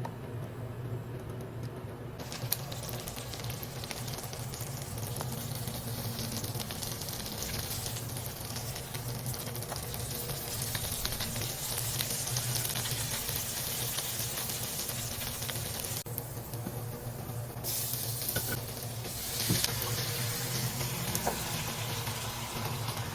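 Food frying in hot oil in a pan, sizzling steadily; the sizzle starts about two seconds in and briefly drops away about two-thirds of the way through before coming back, over a steady low hum.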